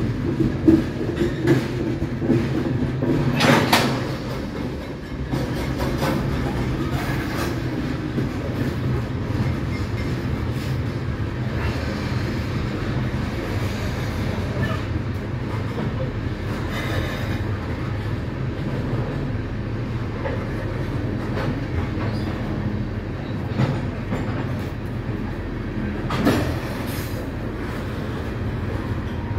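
Freight train of tank cars rolling past, with a steady rumble of steel wheels on rail and some clickety-clack. Two sharper clanks stand out, about three and a half seconds in and again near the end.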